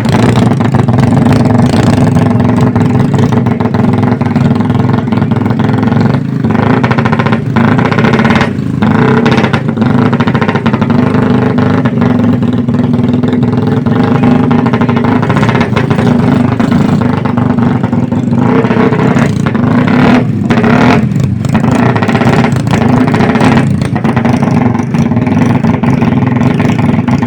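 Motorcycle engines running loud and revving, with a steady hum and occasional sharp pops.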